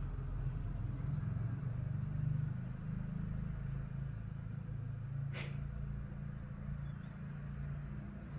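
Cat purring close up: a steady, low rumble, with a single sharp click about five seconds in.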